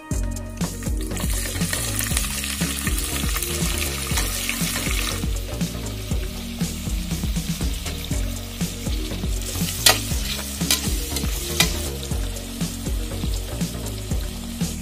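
Chopped onions and green chillies sizzling as they fry in hot oil in a metal pot, stirred with a steel slotted spatula. The sizzle is loudest for the first few seconds, then settles. A few sharp clicks of the spatula against the pot come about ten seconds in.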